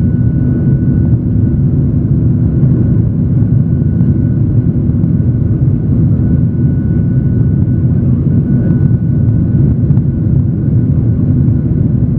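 Jet airliner engines and airflow heard from inside the cabin during takeoff: a loud, steady low rumble with a faint steady high whine above it.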